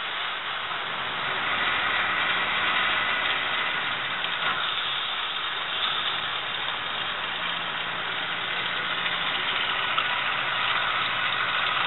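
Otomatic spin-tube dishwasher running a wash: a steady hiss of water spraying inside the tub over a low motor hum, building up over the first couple of seconds and then holding.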